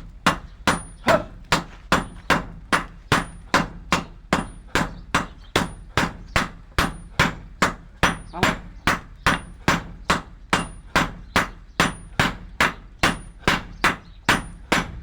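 Blacksmith's hammer striking metal in a steady rhythm, about three sharp blows a second, with a high ring on every other blow.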